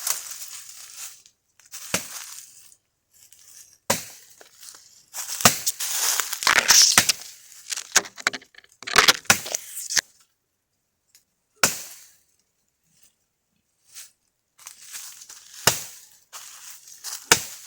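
Dry, partly rotten catingueira wood cracking and crunching as branches are broken and handled, with several sharp knocks between the longer stretches of crackling.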